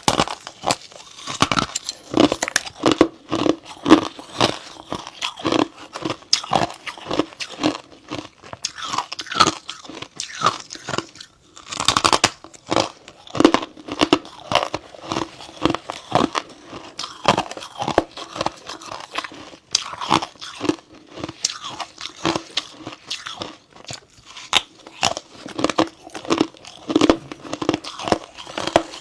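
Close-miked biting and chewing of freezer frost: a continuous run of irregular crisp crunches, with an especially loud bite about twelve seconds in.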